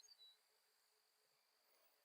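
Near silence with a faint steady high-pitched insect drone, and a few short high chirps at the very start.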